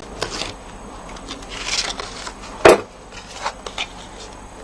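Card stock and craft tools handled on a tabletop: light taps and a paper rustle, with one sharp knock a little past halfway.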